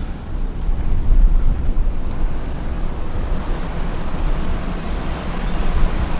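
Strong wind rumbling and buffeting on the microphone through an open car window, over the car's steady road noise.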